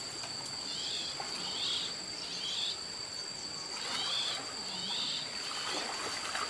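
Insects keep up a steady high-pitched trill, while a bird gives about five short chirps spread through it.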